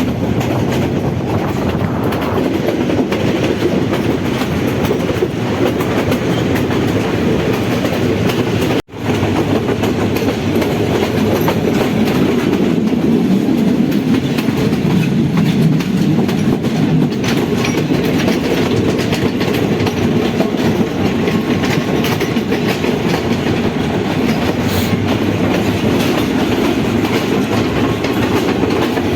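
Passenger train running along the track, a steady rumble with wheels clattering over the rails. The sound cuts out for a moment about nine seconds in, then resumes.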